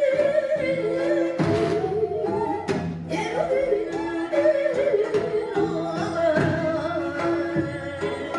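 Korean traditional music for a hallyangmu dance: a wavering melody with wide vibrato and bent notes over a held lower tone, punctuated by sharp drum strokes.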